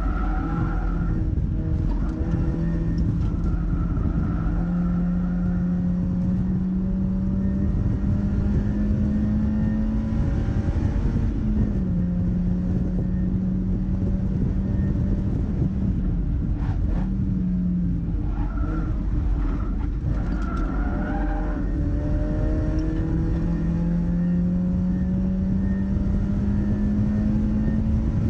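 Mazda MX-5's four-cylinder engine running hard on a race track. The pitch climbs through the revs, falls sharply a few times at gear changes, and climbs again, over heavy road and wind noise.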